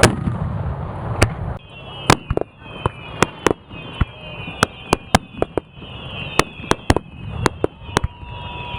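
Aerial fireworks going off: a low rumble that fades about a second and a half in, then a rapid, irregular string of sharp bangs, several a second, with short falling whistles over them.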